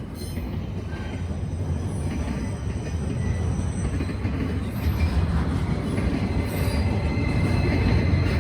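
Norfolk Southern freight train rolling past, a heavy low rumble from the cars that grows gradually louder. A faint, steady high wheel squeal comes in about three seconds in and strengthens near the end.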